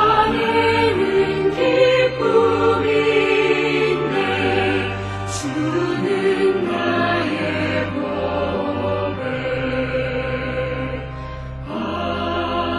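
Hymn music: the closing passage of a slow hymn, with choir-like voices and accompaniment.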